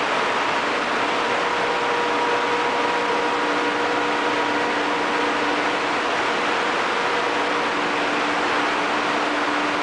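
Steady, loud noise of a ship's engine-room machinery: a dense, even roar with a few steady hum tones running through it.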